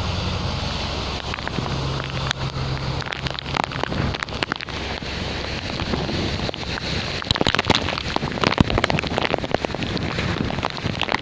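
Heavy typhoon rain with wind buffeting the microphone, and a low steady hum under it for the first few seconds. From about halfway, drops crackle and patter sharply on the microphone.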